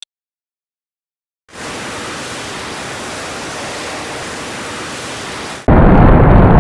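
Ship engine sound effect made of a steady, even hiss-like noise, starting about a second and a half in and jumping much louder and fuller near the end. A single short click is heard at the very start.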